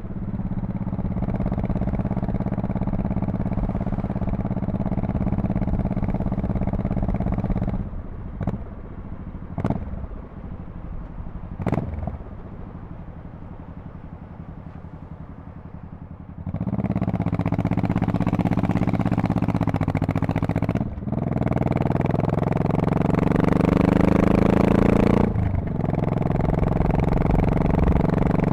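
Honda Shadow Spirit VT1100C V-twin with its exhaust running steadily at cruise. About eight seconds in it drops to a quiet low rumble, with a few sharp clicks. About halfway through it comes back loud, rising in pitch under acceleration, with two brief breaks where the power drops as the rider shifts gears.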